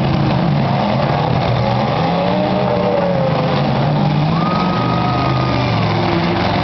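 Several demolition derby cars' engines revving and running together, their pitches rising and falling over one another.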